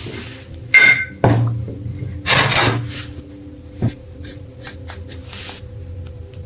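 Metal parts of an antique brass oil lamp being handled: a short ringing metallic clink about a second in, a scrape, a sharp knock, then a few light clicks. Quiet background music runs underneath.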